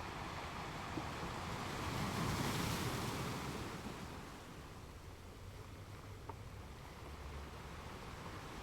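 Ocean surf: a wave swells in about two seconds in, then washes back and fades to a softer rush.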